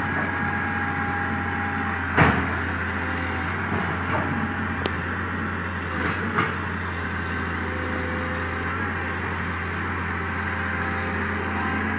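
Komatsu PC200 excavator's diesel engine running steadily under a working load, with a sharp metallic clank about two seconds in and a few lighter knocks a little later.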